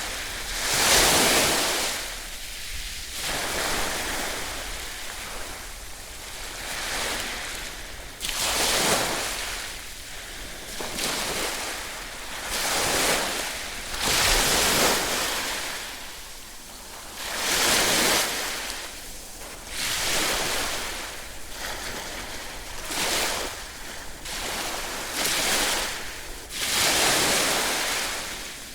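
Ocean waves breaking and washing on a shore: a rushing hiss that swells and falls back every few seconds, with some stronger breakers among them.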